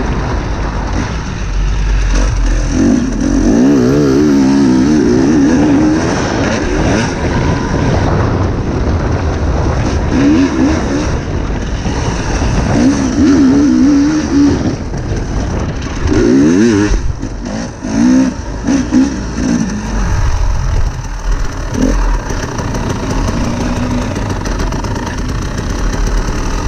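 Dirt bike engine revving up and down again and again as it is ridden round a motocross track, with the throttle chopped off briefly several times about two-thirds of the way through. Heavy wind rumble on the microphone underneath.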